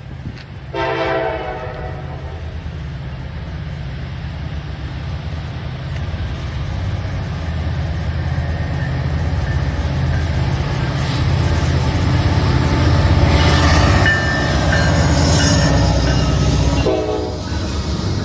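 Norfolk Southern diesel freight train sounding its horn in a short blast about a second in. Then the locomotive rumble and the rolling noise of the wheels grow louder as it passes, with another brief horn note near the end.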